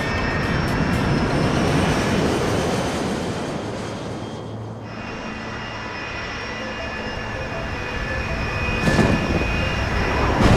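Steady engine-like rushing noise, like an aircraft, easing a little about four seconds in and building again near the end.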